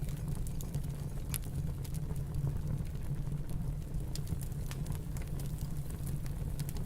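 Wood fire in a fireplace crackling, with scattered sharp pops and clicks, over a steady low rumble of snowstorm wind.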